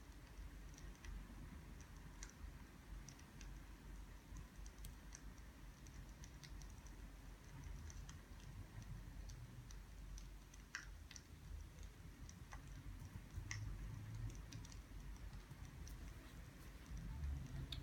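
Faint crackling of burning firewood: irregular small pops and snaps over a low steady rumble.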